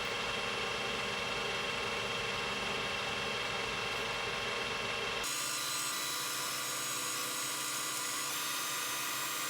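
Steady mechanical running noise with several constant whining tones, from a machine motor running in a workshop. About five seconds in the sound changes suddenly and loses its low rumble.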